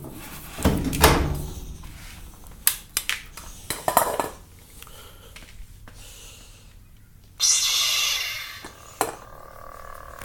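Knocks, clicks and a heavy thump from handling the lightsaber hilt. Then, about seven seconds in, the saber's sound board gives a sudden hissing effect that fades over about a second, leaving a faint steady hum.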